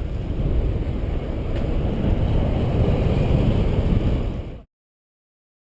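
Steady low rumble of wind buffeting the microphone, cutting off abruptly about four and a half seconds in.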